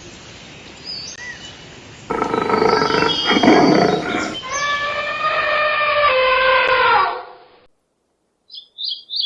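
Bird calls. A loud, harsh call starts about two seconds in and gives way to long, slightly falling calls that stop about seven seconds in. Quick, high chirps follow near the end.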